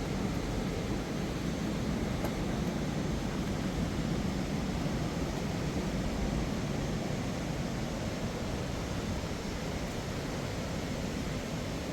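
Steady rushing of a fast mountain river, an even unbroken roar of water, with one faint tick about two seconds in.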